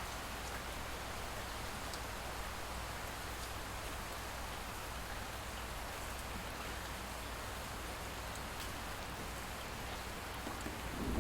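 Light rain falling steadily, an even hiss with a few faint drop ticks. Near the end a low rumble of distant thunder begins to build.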